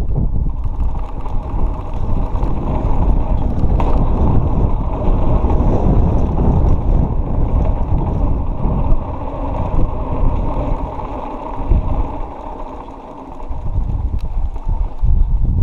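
Mountain bike descending a dirt trail: wind rumbling on the microphone over the tyres on dirt and the bike rattling. It eases for a moment about three-quarters through.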